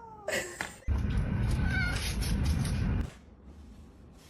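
A cat meowing: a long falling meow trails off at the start. It is followed by about two seconds of loud rough noise that cuts off suddenly about three seconds in.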